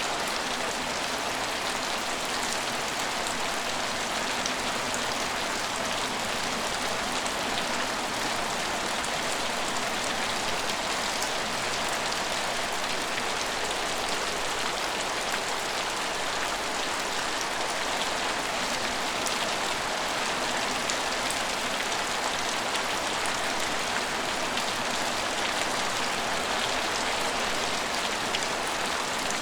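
Steady rain falling and pattering on hard surfaces, an even hiss with fine drop ticks that holds at a constant level.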